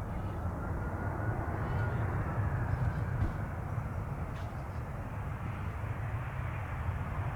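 Jet engines of an Easyjet Airbus A320 on final approach: a steady rumble with a faint whine that bends up and down in pitch, loudness rising slightly at the start.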